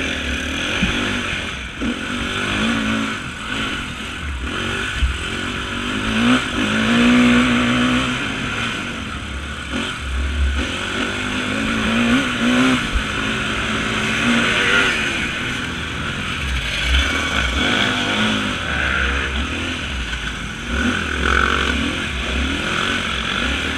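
Off-road motorcycle engine revving up and down over and over, its pitch rising and falling every second or two as the throttle is worked, with a low rumble underneath.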